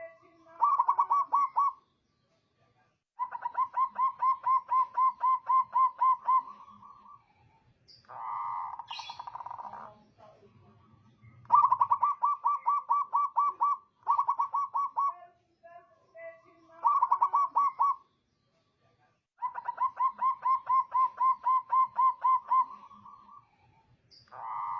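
Zebra dove (perkutut) singing: repeated bouts of rapid staccato cooing notes, about six or seven a second, each bout lasting one to four seconds with pauses between. A rougher, noisier sound comes about eight seconds in and again near the end.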